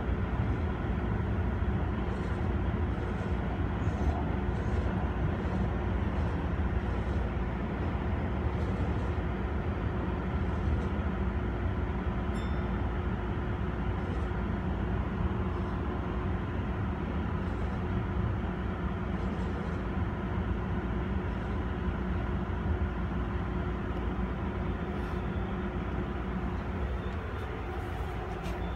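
Electric commuter train running, heard from inside the front car: a steady rumble of wheels on rail with a faint steady hum. It eases off slightly near the end as the train slows into a station.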